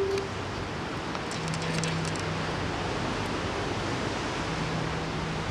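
Steady rushing outdoor noise, an even hiss with no clear events. A loud held low tone cuts off right at the start.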